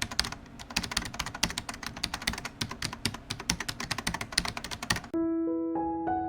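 Rapid keyboard typing: many quick, irregular clicks that cut off suddenly about five seconds in, when gentle piano music begins.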